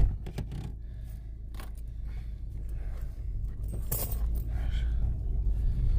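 A few scattered light clicks and rattles, like small objects being handled, over a steady low rumble.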